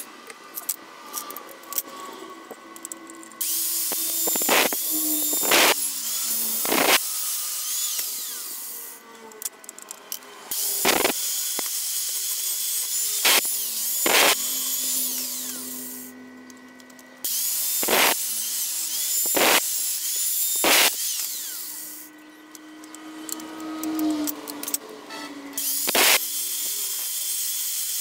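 Small electric power tool working steel parts, running in four spells of several seconds that start and stop abruptly, with a harsh hiss and sharp clicks in between.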